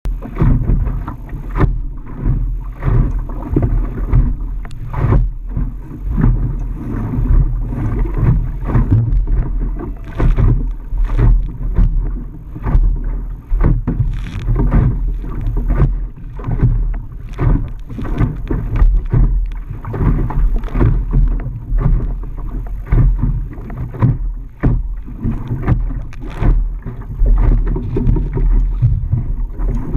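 Wind buffeting the microphone over water splashing around a small Optimist sailing dinghy under way, in loud, uneven gusts with frequent sharp slaps.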